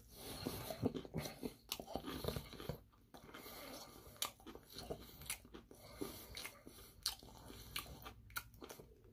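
Close-up eating sounds: biting into and chewing crispy Korean fried chicken, with irregular crunches of the fried coating.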